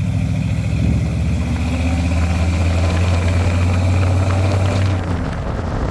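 LS-swapped V8 in a Chevrolet C10 pickup running steadily with a deep, even hum. Near the end the steady tone drops away and a rougher noise takes over.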